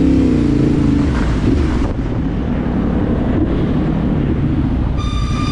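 Dirt bike engine running while riding, with wind rushing over the microphone. A brief high-pitched beep sounds near the end.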